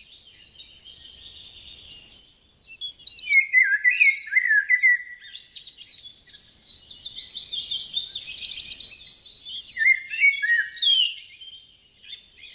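Songbirds chirping and singing: many quick, overlapping chirps and trills. The birdsong thins out near the end.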